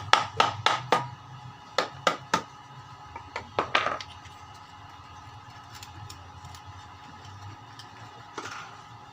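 Washing-machine motor driving a tornado-style fan, a steady hum with a few held tones. A quick series of sharp knocks sounds through the first four seconds.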